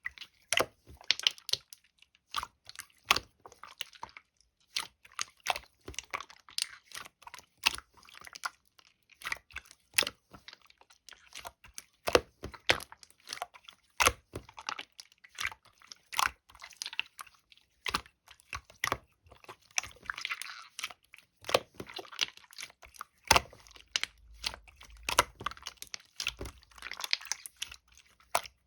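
Clear, colourless slime being squeezed and stretched by hand: an irregular run of sharp sticky clicks and pops, now and then merging into short crackly squishing.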